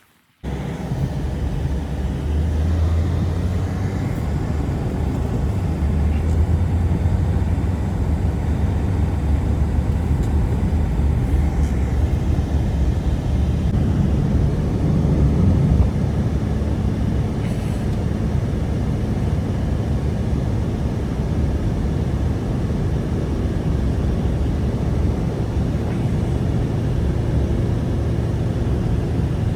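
Strong wind blowing in a steady low roar, starting abruptly about half a second in.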